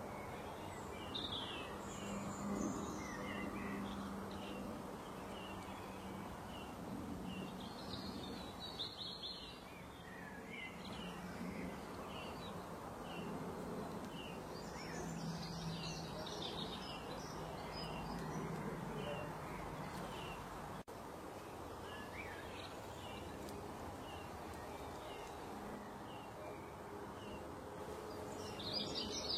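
Birds chirping and singing in short, scattered calls over a steady background noise, with a few busier bursts of song.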